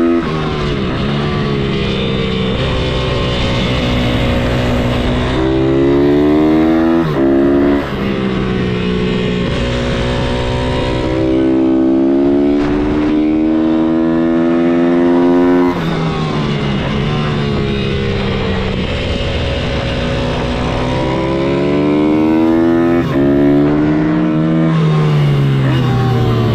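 Single-cylinder four-stroke engine of an MRF 160-R supermoto pit bike, working hard. Its pitch climbs steadily under throttle, then drops sharply several times as the throttle is shut or a gear is changed.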